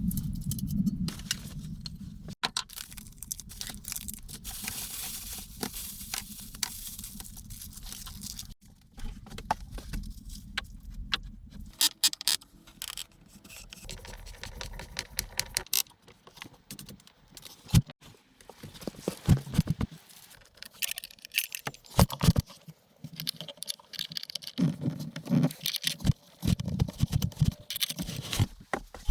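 Irregular clicks, knocks and scrapes of things being handled, with a low rumble and a hiss during the first dozen seconds, and more frequent, louder knocks in the last third.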